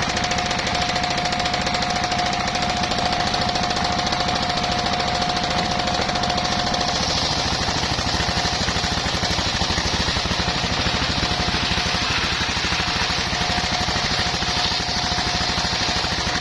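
Engine-driven circular sawmill running, its engine pounding steadily in rapid regular beats, with a steady whine from the saw that fades about seven seconds in and returns near the end.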